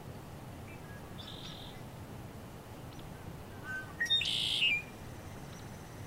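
A forest bird calls twice over a faint steady background: a short high chirp about a second in, then a louder call about four seconds in.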